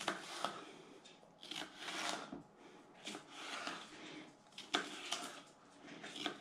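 A knife trimming the white pith from a piece of bell pepper on a cutting board: soft scraping and crunching strokes, with a few sharp taps of the blade on the board.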